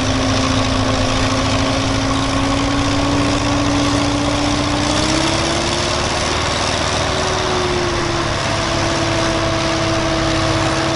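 Tractor engine running steadily, its revs rising a little about five seconds in and then holding at the higher speed.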